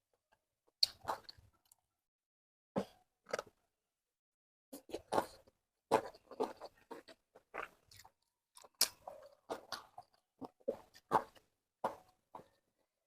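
A person chewing food close to the microphone: crunchy bites and wet mouth sounds in irregular bursts, with short silent gaps between them.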